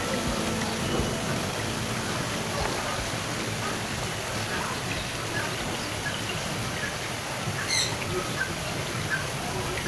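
Birds chirping over a steady hiss of background noise. From about halfway in, short high chirps repeat roughly one to two a second, with one brighter, louder call a little later.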